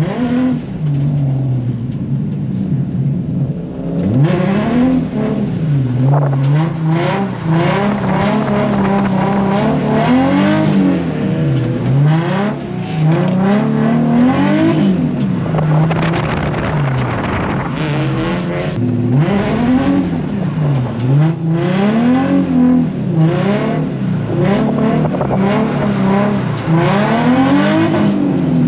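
A drift car's engine revving hard and dropping back again and again, a rise and fall every second or two, over a steady wash of road and tyre noise, as the car is driven through a run of drift corners.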